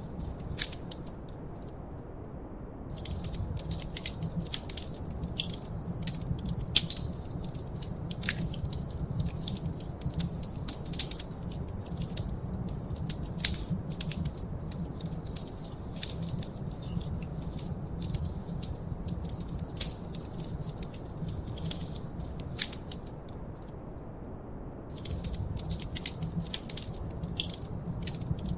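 Wood fire in a fireplace crackling, with frequent sharp pops and snaps over a low steady rumble. The crackling drops away briefly twice, once about two seconds in and once about four-fifths of the way through.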